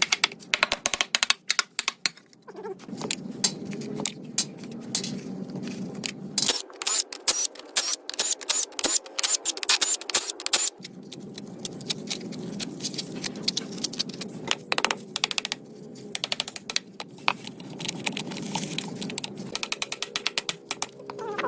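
Runs of rapid, sharp clicks and taps from hand tools at work, over a steady low hum that drops away for a few seconds in the middle.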